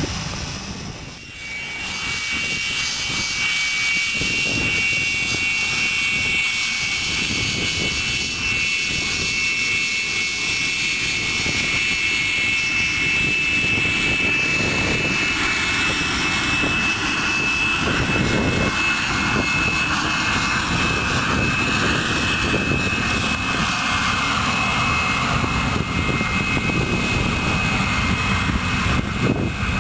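Aircraft engines running steadily on the airfield, a continuous noise with a high whine over it. It dips briefly about a second in, then carries on.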